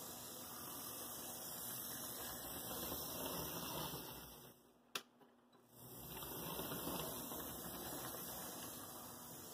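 Rebuilt Athearn Blue Box FM Trainmaster model locomotive running on track, its small motor and gears whirring, growing louder and then softer. About halfway through it stops for about a second, with a single click, then starts running again.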